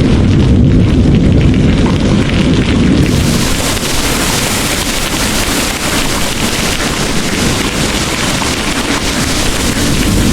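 Heavy rain pouring with a deep, rolling thunder rumble that dies away about three seconds in, leaving the steady hiss of the downpour.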